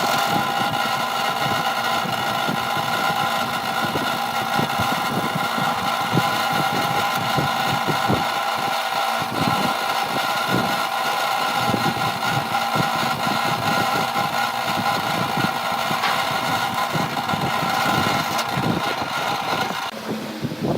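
A woodworking power tool's electric motor running steadily with a constant whine, winding down near the end.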